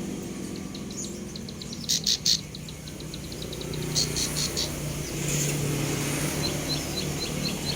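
Young cemblek sawah bird, still learning its song, calling in short repeated chirps. Three louder, harsher notes come about two seconds in and a quick run of notes about four seconds in, over a steady low hum.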